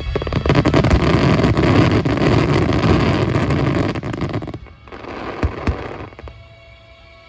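Starmine fireworks: a dense run of crackling and booming shell bursts for about four and a half seconds, then a sudden drop. Two more sharp bangs follow close together, and the sound fades.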